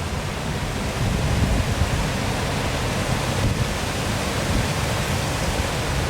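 Waterfall rushing steadily: an even hiss of falling water over a fluctuating low rumble.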